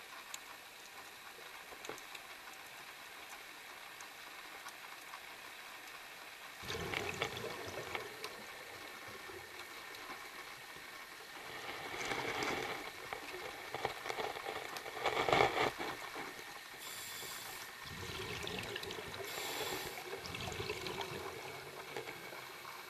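Underwater recording: a scuba diver's exhaled breath bubbling out of the regulator in four bursts a few seconds apart, over a steady underwater hiss.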